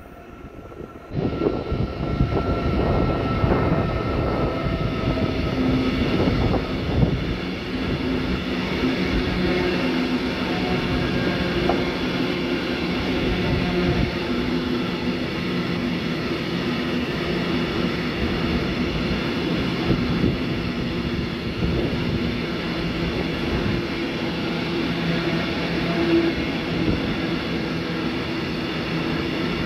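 Freight train of sand wagons hauled by an HVLE class 159 locomotive passing, a steady loud rumble of wheels on rail that sets in suddenly about a second in, with several held tones running through it.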